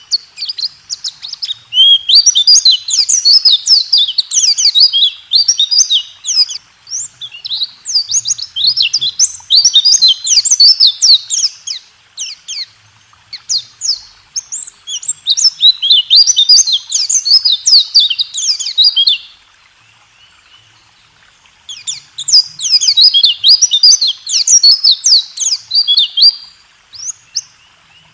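White-eye (pleci) song in the fast rolling 'roll tembak' style: long runs of rapid, high chirping notes. There are three bouts, with short pauses at about 12 s and at about 20 s.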